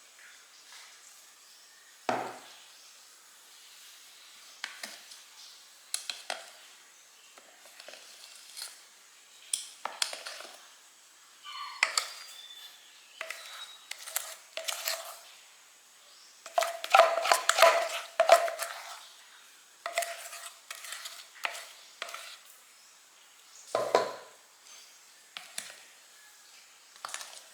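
Kitchen utensils clinking and knocking against cookware in scattered separate strikes, some with a short ring, with a busy run of rapid clinks past the middle.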